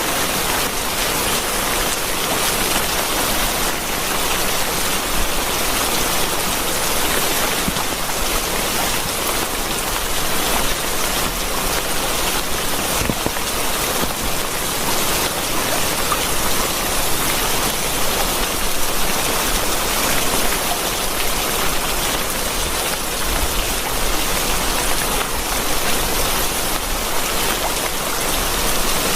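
Steady rain falling: an even, unbroken hiss of many drops striking a surface.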